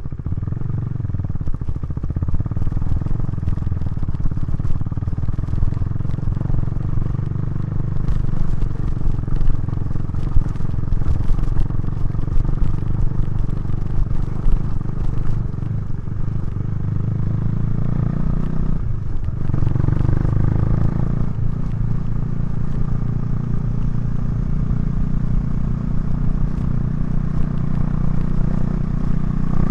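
KTM 390 Duke's single-cylinder engine running through its Remus exhaust under way at fairly steady revs. The engine note briefly drops away about nineteen seconds in, then picks up again.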